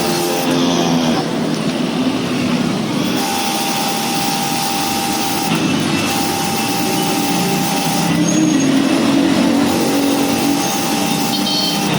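Pressure washer running and spraying water: a steady hiss over a motor hum, with a whine that drops out and comes back a few times.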